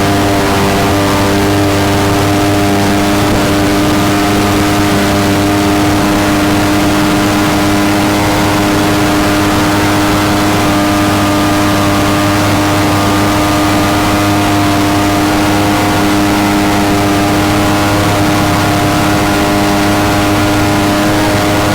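Mini jet boat's engine running at a steady, unchanging pitch under way, over a constant hiss of rushing air and water.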